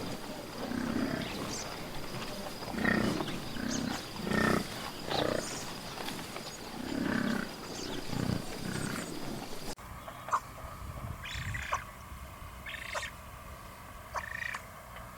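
Wild animal calls: a series of deep, low calls spaced a second or two apart. About ten seconds in the sound cuts abruptly to shorter, higher-pitched chirping calls.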